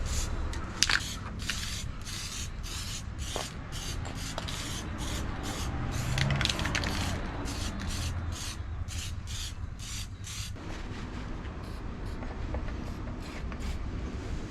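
Rhythmic back-and-forth rubbing strokes by hand, about three a second, as in sanding or scrubbing a part. The strokes stop about ten seconds in.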